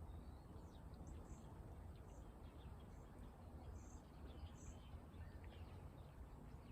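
Faint outdoor background: a steady low rumble with small birds chirping briefly now and then.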